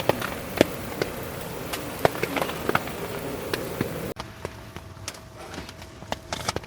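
Raindrops tapping irregularly on tent fabric over a steady hiss of rain. About four seconds in, the sound drops abruptly to a quieter background with only a few taps.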